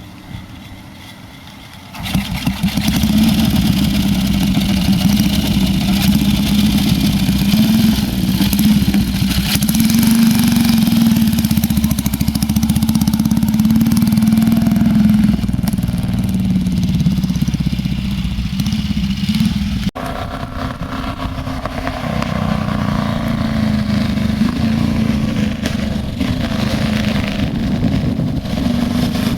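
1937 Rudge racing motorcycle's single-cylinder engine running hard through long open straight pipes with no mufflers. It comes in loud about two seconds in, and the sound changes abruptly about two-thirds of the way through.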